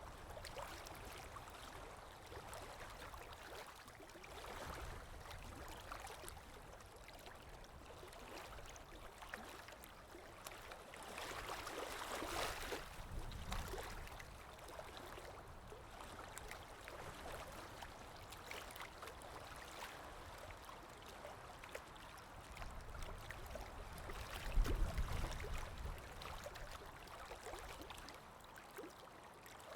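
Water lapping gently with a soft wind, an unbroken wash of small splashes. It swells twice, about twelve seconds in and again near twenty-five seconds with a low gust.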